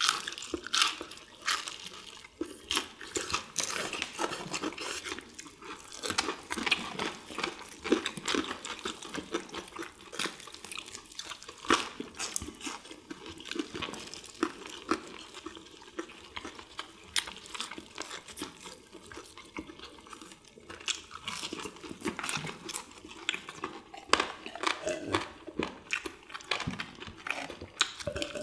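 Close-miked eating of crispy fried chicken: many quick crunches and wet chewing and mouth sounds from several people eating at once.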